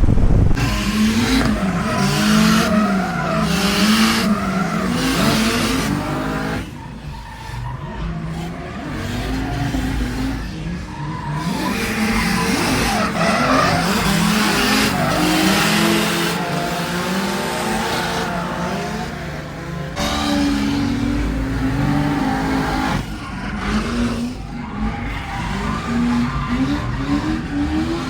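Turbocharged 2JZ-swapped Genesis Coupe drifting: the engine revs rise and fall over and over while the tyres squeal and skid. The revs and tyre noise drop off briefly about seven seconds in, again near eleven seconds, and around twenty seconds.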